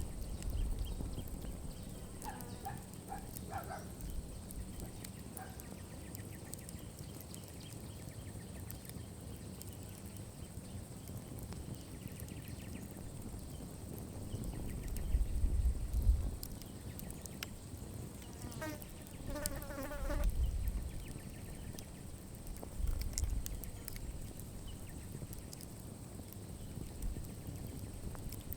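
Campfire burning down, with sparse crackles and pops over a faint steady high hum. A bird calls in short rapid phrases twice, a few seconds in and again past the middle. Several brief low rumbles are the loudest sounds.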